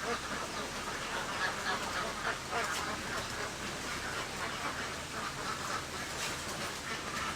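A flock of ducks quacking, many calls overlapping without pause.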